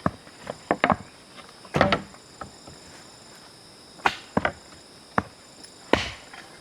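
Wood being struck with a tool: about ten sharp knocks at irregular intervals, the loudest about two seconds in and near the end. Insects chirr steadily underneath.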